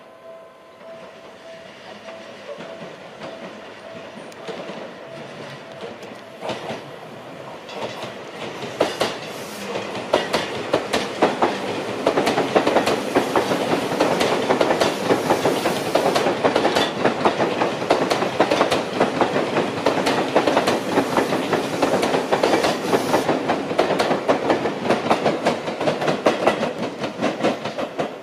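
Seibu 001 series 'Laview' limited express electric train passing through a station without stopping. Its wheels clatter rapidly over the rail joints, building up from about eight seconds in and staying loud as the cars go by.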